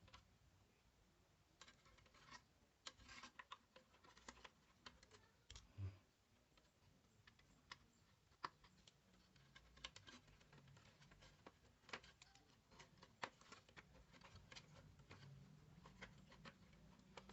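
Faint, irregular clicks and scratches from small hard objects being handled, with one duller thump about six seconds in.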